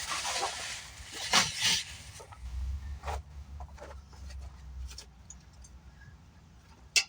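Rustling and handling of packaging and loose parts, with scattered small clicks and one sharp click near the end. A low wind rumble on the microphone sounds through the middle.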